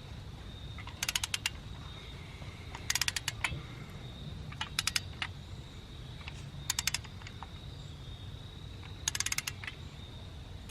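Ratchet of a torque wrench clicking in five short bursts of quick clicks as it is swung back and forth, tightening a new spark plug into the Honda H22A engine. A steady low hum and a faint high tone sit underneath.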